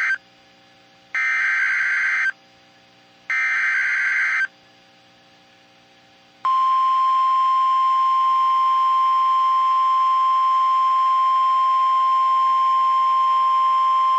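Three buzzy, screeching bursts of EAS/SAME digital header data, each about a second long, sent about a second apart. Then, about six and a half seconds in, a long steady single-pitch alert tone begins: the 1050 Hz Weather Radio warning tone that comes before the spoken alert.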